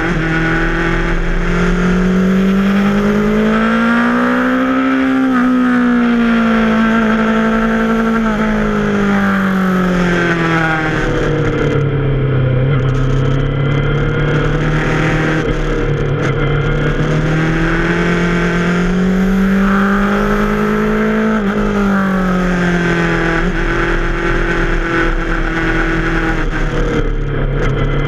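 Yamaha FZ6R's inline-four engine heard from the rider's seat, its note rising as the rider accelerates and falling as he eases off, twice, with a long stretch at lower revs in between.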